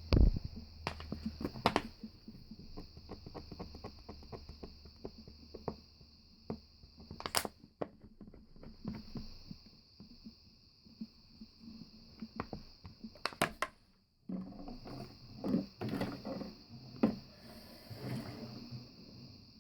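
Bottles being handled: an irregular run of clicks, taps, knocks and scrapes, with a few louder knocks. The sound cuts out briefly about fourteen seconds in.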